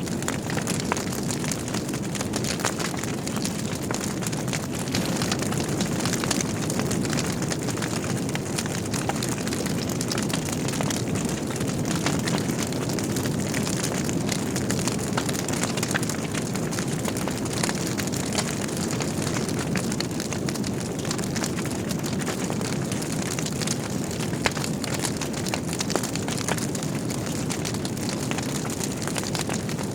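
Wood logs burning in a fireplace: a steady low rush of flames with frequent small crackles and pops, and one sharper pop about three-quarters of the way through.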